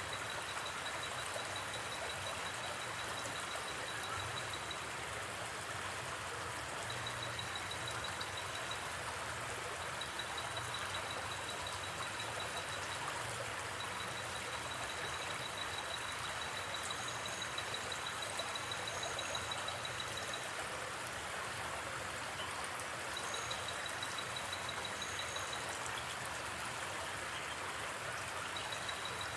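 Gently flowing river: a steady rush of running water. Over it, a high, rapidly pulsing trill comes and goes in stretches of a few seconds, as night insects do.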